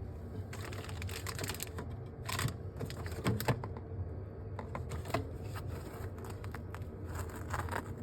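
Irregular light clicks and taps with a few short scraping or rustling bursts, from items being handled during fridge cleaning, over a steady low hum.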